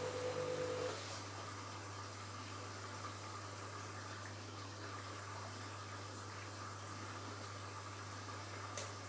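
Washing machine mid-wash: the drum motor's whine stops about a second in, leaving a steady low hum and a soft hiss of water. A single sharp click near the end.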